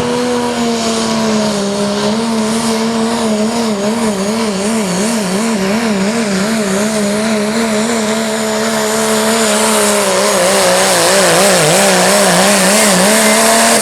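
Diesel pull truck's engine held at full throttle under heavy load, its pitch wavering quickly up and down as the truck hops and bounces down the track, with a thin high whine above it. It gets a little louder in the last few seconds.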